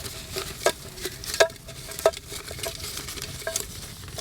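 Campfire crackling, with irregular sharp pops of burning wood, a few of them loud, over a low hiss.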